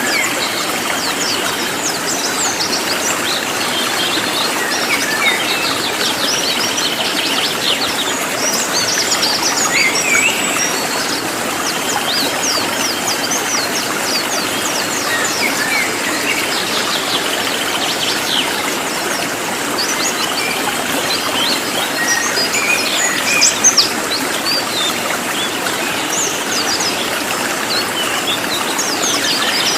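A cililin songbird singing rapid, dense bursts of quick high-pitched chirps and trills. It sounds over a steady rushing background noise.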